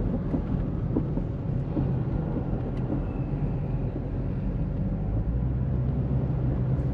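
Car engine and road rumble heard from inside the moving car's cabin: a steady low drone.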